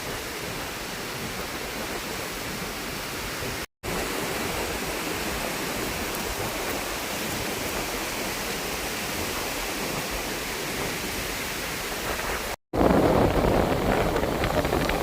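Steady rushing wind. After a cut near the end it gets louder and heavier as gusts buffet the microphone.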